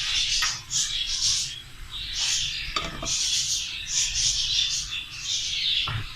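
Short, irregular hissing noises, about one or two a second, from a karahi with cooking oil heating in it on a gas flame.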